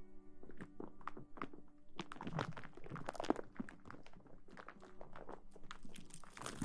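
Close-miked ASMR rustling: a dense run of crackles and soft taps that grows busier about two seconds in, over faint steady background music tones.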